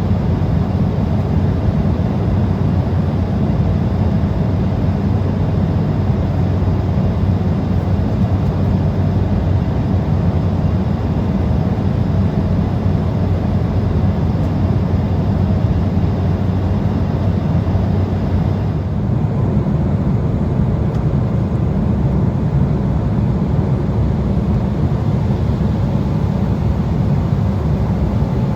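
Steady cabin noise of an Embraer 175 regional jet in cruise: a deep, even rush of airflow and the twin GE CF34 turbofan engines, with a low steady hum. The higher hiss shifts slightly about two-thirds of the way through.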